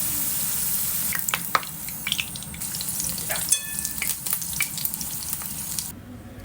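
Food sizzling in a hot frying pan, with a cooking utensil clicking and scraping against the pan as it is stirred. The sizzle cuts off abruptly near the end.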